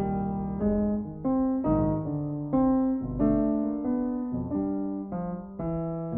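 Piano music: a slow melody of single notes and chords, a new note about every half second.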